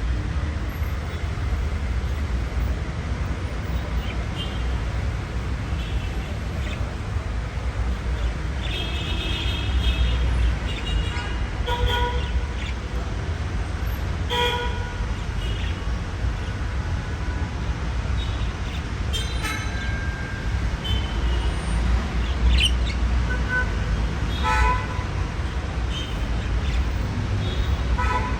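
Budgies chirping and calling in short scattered bursts over a steady low background rumble.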